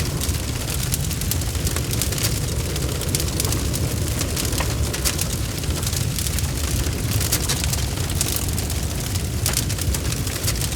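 Log fire burning steadily with a low rumble, frequent sharp crackles and pops throughout.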